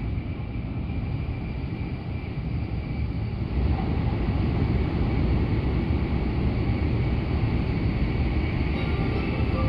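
Cabin noise of an N700S Shinkansen running at speed: a steady rumble and rush. It gets louder about three and a half seconds in, as the train enters a tunnel.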